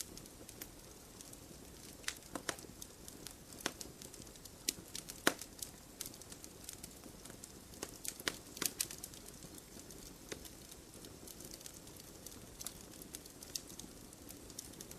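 Wood fire crackling in a fireplace: irregular sharp snaps and pops over a faint steady low rush, busiest between about two and nine seconds in.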